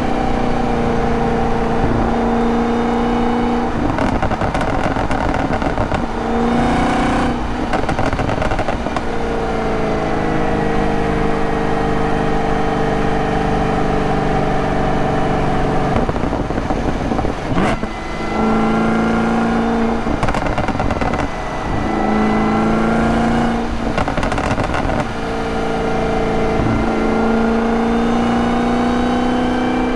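2023 Camaro ZL1's supercharged 6.2-litre LT4 V8 under hard driving. The engine note climbs and falls over and over, breaking off with several sudden drops and jumps in pitch as the car is shifted and lifted off, with one sharp click and a brief dip in level about two-thirds of the way through.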